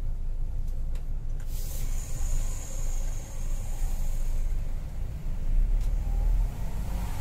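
Scania coach running at speed on the highway, heard from aboard: a steady low rumble of engine and road. A band of high hiss joins it about a second and a half in and fades some three seconds later.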